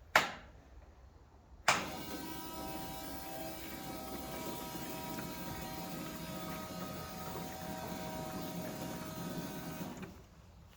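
A click, then the VW Golf Mk1's electric fuel pump starts suddenly and runs with a steady hum and whine for about eight seconds, pumping old petrol out through the loosened fuel line, before cutting off near the end.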